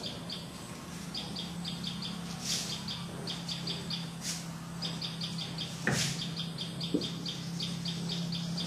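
A small bird chirping in quick clusters of short, high, repeated notes, over a steady low hum, with a few light knocks.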